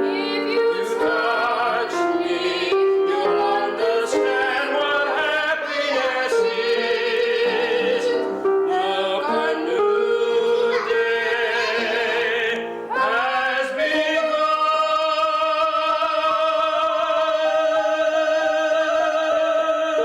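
Operatic-style singing with vibrato, with piano accompaniment; the melody moves through several notes, then settles on one long held note about two-thirds of the way in.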